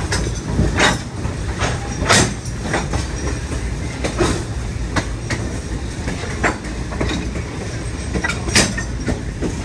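Passenger train rolling along, heard from the open platform at the end of a car: a steady low rumble with sharp clacks of the wheels and car ends, about one every second at uneven intervals.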